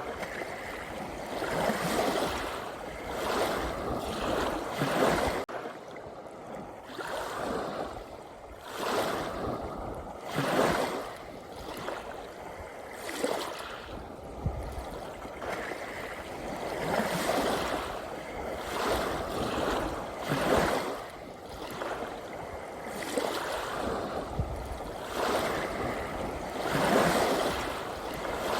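Sea waves washing in again and again, a swell of rushing water every two seconds or so.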